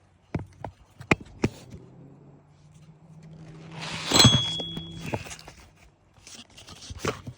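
Knocks and taps on an asphalt shingle roof during a shingle repair, with one louder, ringing metallic strike about four seconds in. A low steady hum runs underneath for a few seconds in the middle.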